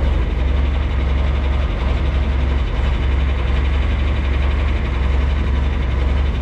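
Engine of farm machinery running steadily at idle, a continuous deep rumble.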